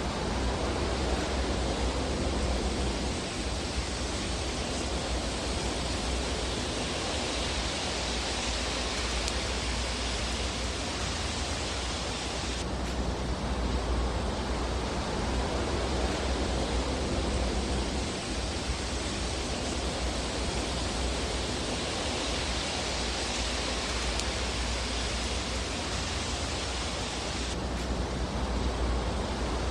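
Steady hissing rush of a fire burning in a fireplace, with no single crackles standing out. The texture shifts abruptly about 13 seconds and again about 28 seconds in.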